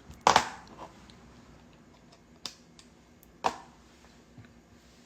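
A few sharp clicks and taps in a small room: one loud click about a third of a second in, then softer ones a couple of seconds later, over faint room tone.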